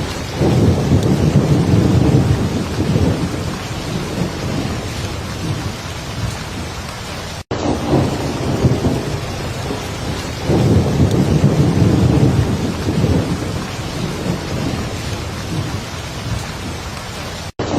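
Heavy rain falling steadily with low thunder rumbling, swelling up twice, about half a second in and again about ten seconds in. The sound drops out for an instant twice, about seven and a half seconds in and near the end.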